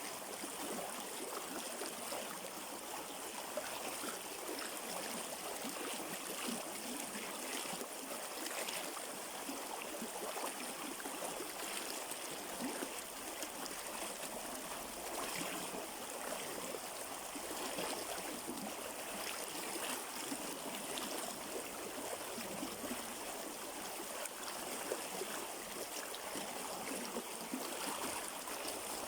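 Shallow river flowing over stones, a steady rush of running water with gurgling and trickling.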